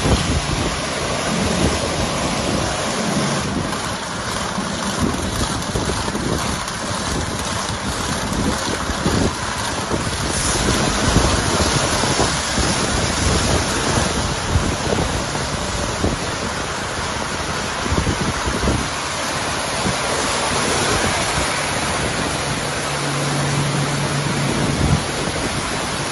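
WashTec rollover car wash gantry at work: water spraying and rotating Shake Brushes swishing over a car, a dense, steady wash noise with many small slaps through it. A low hum comes in for a couple of seconds near the end.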